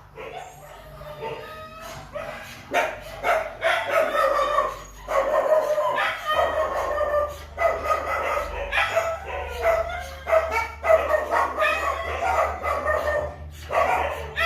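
A dog whining and yelping over and over in high, pitch-bending cries.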